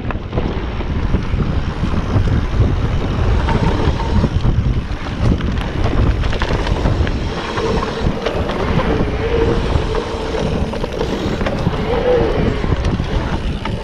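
Wind buffeting the microphone and tyre noise over a dirt trail as a mountain bike is ridden at speed, a dense, steady rushing.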